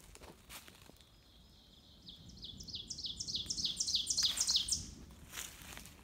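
A songbird singing a quick series of high, downslurred notes, about five a second, that grows louder for nearly three seconds. Footsteps crunch dry leaf litter near the end.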